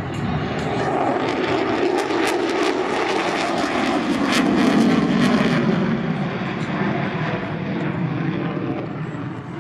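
F-35 Lightning II fighter jet making a pass. Its engine roar swells to a peak about five seconds in, drops in pitch as it goes by, then fades.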